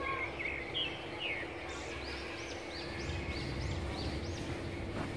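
Birds calling in the surrounding trees: a few short falling notes, then a quick run of short, high arching notes, about three a second, from about two seconds in. A faint steady hum runs underneath.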